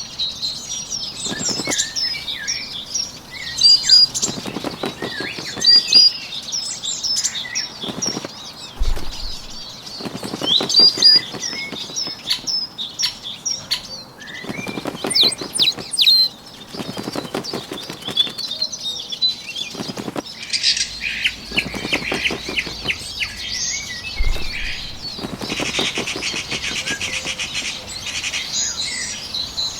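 Wings flapping in repeated bursts of rapid strokes every second or two, over many small birds chirping and trilling, with a denser buzzing trill near the end.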